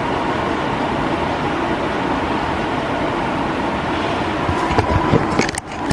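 Steady road and engine noise of a moving car heard from inside the cabin, with a few short knocks near the end.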